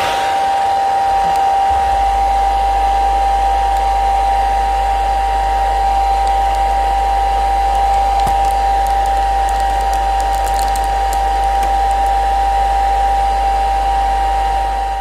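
Hair dryer running steadily, an even blowing whoosh with a constant motor whine; a low hum joins about two seconds in.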